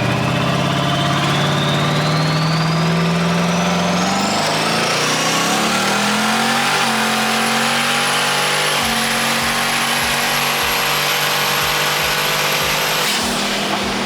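Twin-turbo 5.3 LS V8 of a Fox-body Mustang accelerating hard. A turbo whine rises steadily in pitch over the first six seconds with the engine note climbing beneath it, holds high, then cuts off about a second before the end.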